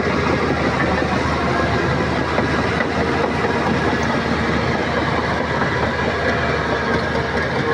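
Shantui crawler bulldozer's diesel engine running steadily as it works, with the clatter of its steel tracks.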